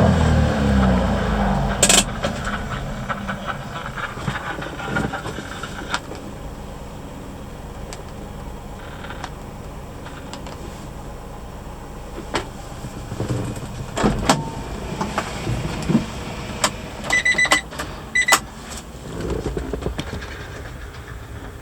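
Honda Acty mini truck engine dropping from a rev back to idle at the start, then idling steadily. Scattered clicks and knocks sound over it, with a few short high beeps about three quarters of the way through.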